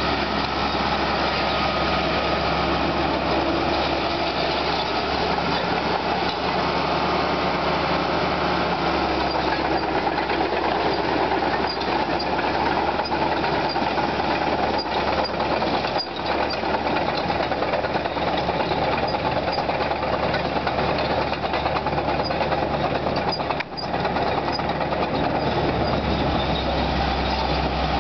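Caterpillar D4H crawler dozer's diesel engine running steadily, with one brief dip in level about three-quarters of the way through.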